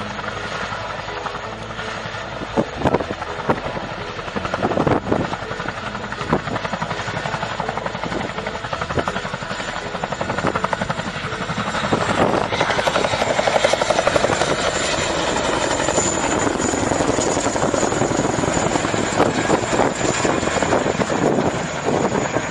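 Helicopter running, with its turbine whine as a thin steady high tone over dense engine and rotor noise. It grows louder about halfway through.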